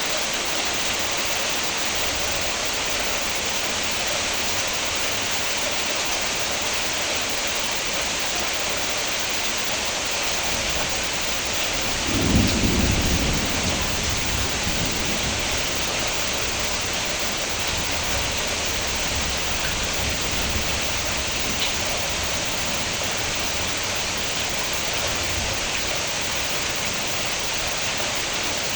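Steady rain falling, an even hiss. About twelve seconds in, a low rumble of thunder swells and dies away over a few seconds.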